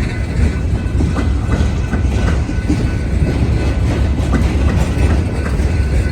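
Freight cars of a coal train rolling past: a steady low rumble with irregular clacks of the wheels over the rail joints.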